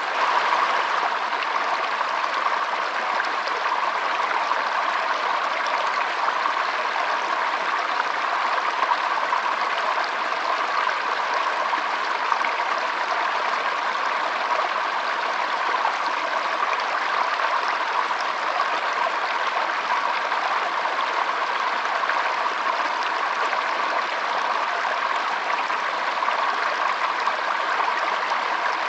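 Stream water running steadily, an even rushing sound with no breaks.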